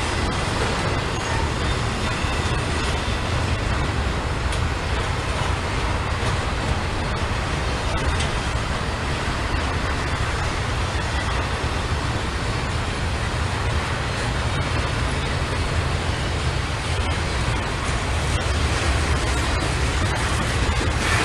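A steady, even rumble of passing heavy vehicles, with no distinct horn, bell or single impact standing out.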